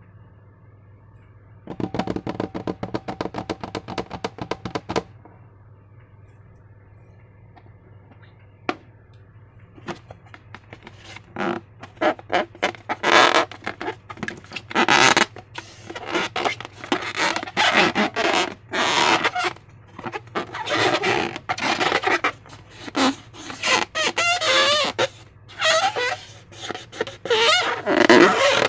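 Slime being squeezed and stretched by hand, squelching in irregular bursts, with a quick run of fine crackling clicks a couple of seconds in, over a faint steady hum.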